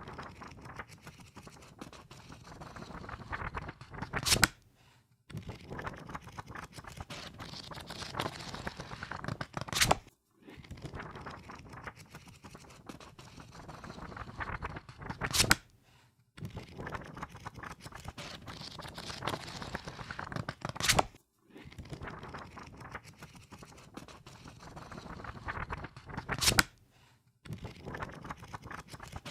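A book's pages flipped through rapidly, a fast fluttering patter of paper that runs for a few seconds and ends in a sharp slap as the last pages fall. This happens five times, with short pauses between.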